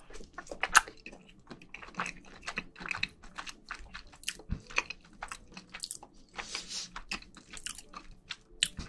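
A person chewing a mouthful of rice with soy-marinated and spicy marinated crab, close to the microphones: irregular wet smacking and clicking mouth sounds, the sharpest a little under a second in.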